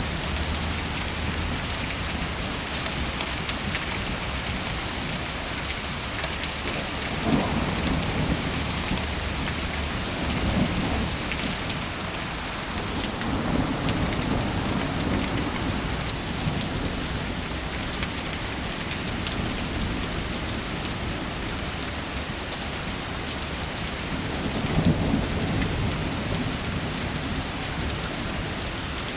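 Steady heavy rain pattering down. Low rumbles swell up a few times, about a quarter, halfway and most of the way through.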